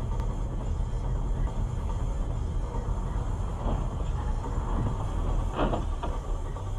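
Steady low rumble of a vehicle on the move, engine and road noise, with a brief louder sound about five and a half seconds in.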